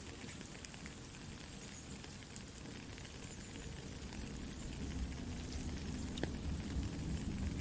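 Steady rain with a crackling campfire: a soft even hiss broken by scattered small pops. A low rushing grows louder about two-thirds of the way through.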